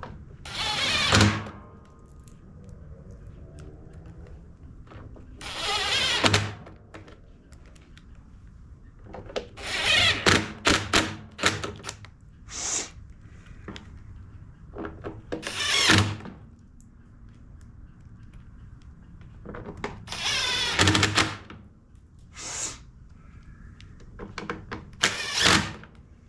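Power drill/driver run in short bursts, about eight times, driving screws back in while a small engine's housing is reassembled.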